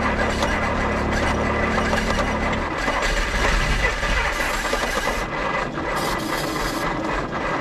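1955 Willys station wagon engine cranking on the starter, trying to fire but not catching: it is right on the edge of starting. The low rumble stops about two and a half seconds in, and a rasping noise carries on.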